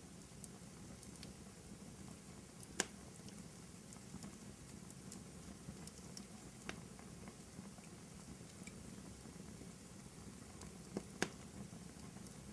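Wood fire burning in a fireplace: a faint steady hiss and low rumble with scattered small crackles and sharp pops, the loudest about three seconds in and two close together near the end.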